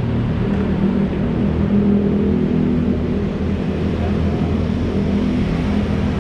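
Big sport motorcycle engines running steadily at low revs, with a deep even rumble and no clear revving.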